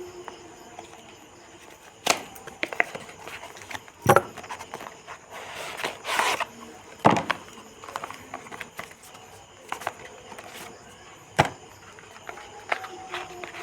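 Handling of an earbud box and its packaging: several sharp clicks and knocks, with a brief rustle about six seconds in.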